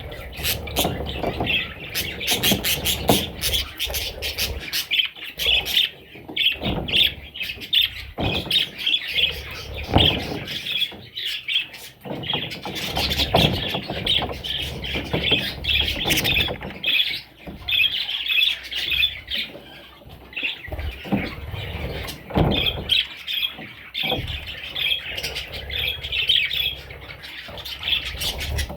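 A group of budgerigars chirping and chattering continuously, with scattered sharp clicks among the calls.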